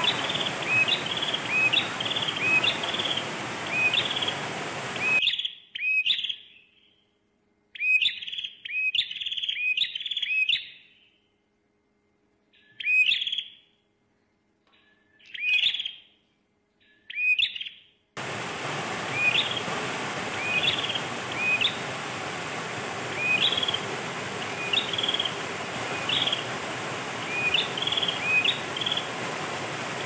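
A bird chirping over and over, short high calls about once or twice a second, over the steady rush of stream water. For about thirteen seconds in the middle the water noise drops out entirely and only the chirps remain.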